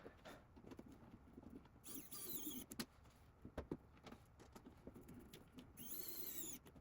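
Faint clicks and handling of small screws being driven into a 3D printer's tophat hinge with a screwdriver, with two brief high squeaks, about two seconds in and near the end.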